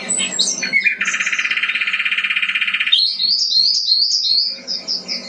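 Birds singing: a few short chirps, then a fast, buzzy trill lasting about two seconds. A quick run of short, high, down-slurred chirps follows, several a second.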